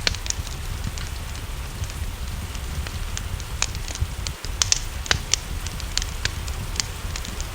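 Wood fire crackling, with irregular sharp pops and snaps, some louder than others, over a steady low rumble, mixed with rain.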